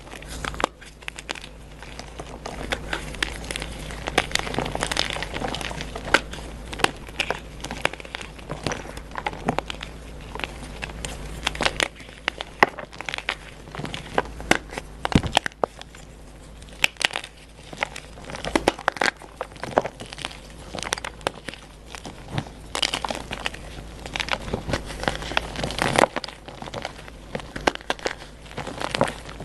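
Blocks of dyed gym chalk being crushed and crumbled close up: a steady stream of irregular crunches and sharp cracks as the dry, powdery chalk breaks apart.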